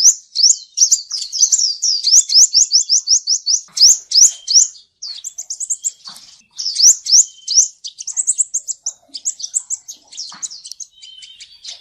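Male sunbird (the Vietnamese 'seven-colour' sunbird) singing: fast runs of short, high, upward-sweeping chirps, several a second, with a brief pause about five seconds in before the chirping resumes.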